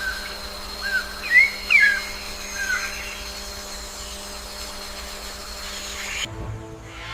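A handful of short whistled bird calls, rising and falling, over a steady droning hum; the background sound changes abruptly about six seconds in.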